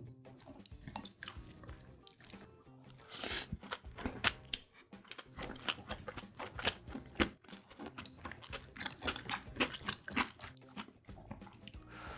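Close-miked chewing of kimbap topped with shredded radish salad: a run of crisp crunches and wet mouth sounds, with the loudest crunch about three seconds in. Faint background music plays underneath.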